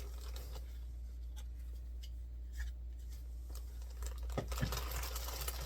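Packaging and accessories being handled: scattered light rustles and clicks, two sharper knocks about four and a half seconds in, then denser crinkly rustling near the end, over a steady low hum.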